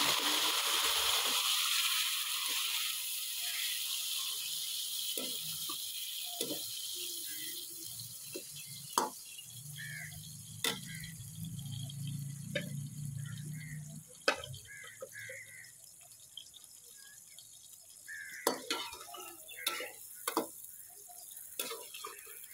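Bitter gourd slices sizzling loudly as they hit hot oil in a steel wok, the sizzle dying down over the first couple of seconds. Then a metal spoon clinks and knocks against the pan as they are stirred, with a low hum for a few seconds midway.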